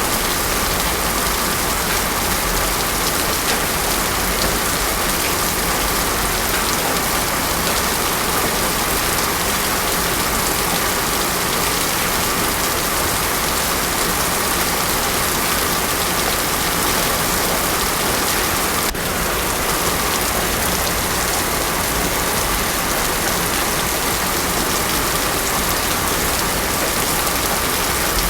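Heavy rain falling steadily on a road surface, a dense, even hiss with no thunder.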